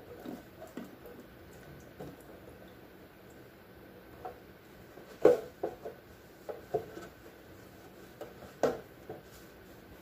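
Scattered knocks and clinks of jars and food containers being handled and set down on fridge shelves, the loudest about five seconds in and another a little before the end.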